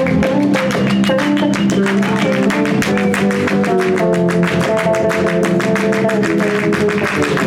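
Live band playing an instrumental passage: a melody line moving over a fast, steady beat.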